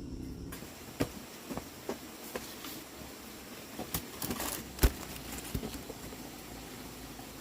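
Dry corn plants and ears being handled: rustling with scattered irregular snaps, the loudest about five seconds in.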